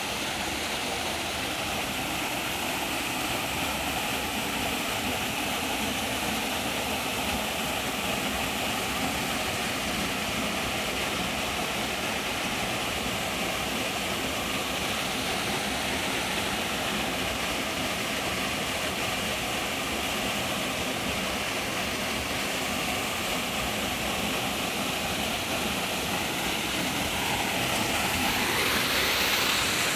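Waterfall rushing: a steady noise of falling water that swells a little near the end.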